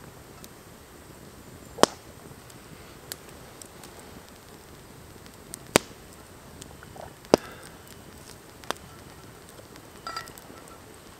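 Wood campfire crackling: a few sharp, loud pops several seconds apart, with smaller ticks between, over a steady low hiss.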